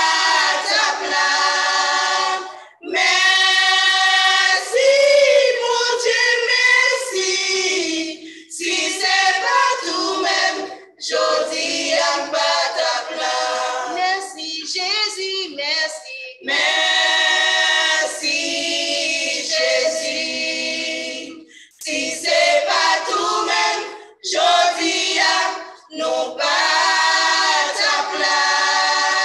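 Gospel choir singing a hymn, sung in phrases broken by short pauses every few seconds.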